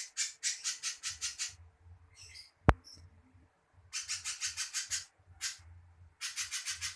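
A spiderhunter (pijantung pisang) calling in rapid, harsh, scratchy note trains of about six or seven notes a second. There are three bouts, separated by short pauses, and a single sharp click comes in the first pause.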